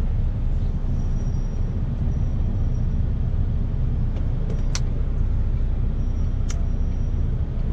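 Truck engine running steadily with a low rumble, heard from the cab, with two sharp clicks about five and six and a half seconds in.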